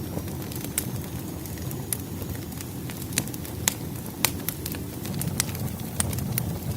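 Wood fire crackling: irregular sharp pops and snaps of burning logs over a low, steady rumble of the flames.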